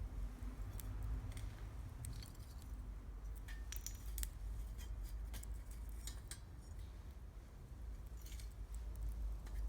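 Wood campfire crackling: irregular sharp snaps and ticks over a low steady rumble.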